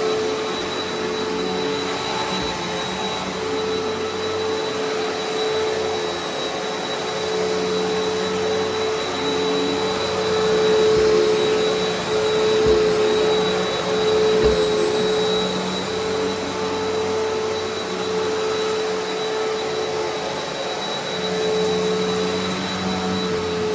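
Eureka Altima upright vacuum cleaner running steadily on carpet, its motor holding one steady whine. A couple of sharp clicks come about halfway through.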